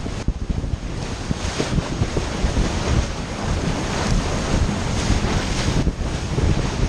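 Wind buffeting the microphone in irregular low thumps over a steady rush of wind and sea.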